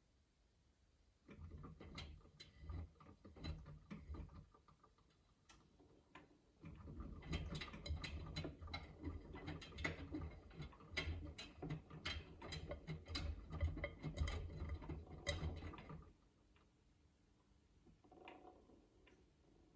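Miele W3985 front-loading washing machine with its drum turning in stretches of several seconds between short pauses. The motor hums low while the wet laundry inside makes a dense clicking patter as it drops and rolls. This is the tumbling after the main-wash drain, before the first rinse.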